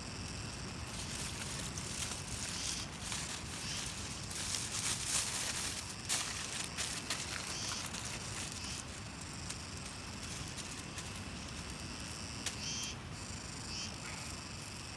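Insects chirping over a steady outdoor background, with a run of sharp crackles and clicks through the middle.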